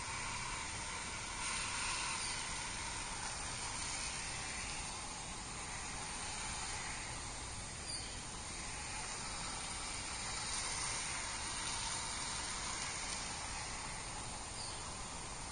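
Chemical Guys Torq foam nozzle on a garden hose spraying soapy water onto a car's bodywork: a steady hiss of spray.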